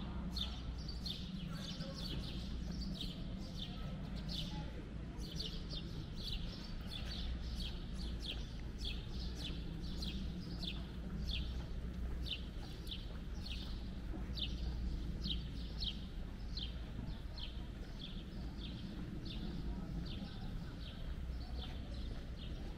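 A small bird chirping over and over, a string of short high chirps about two a second, over a steady low hum of town background noise.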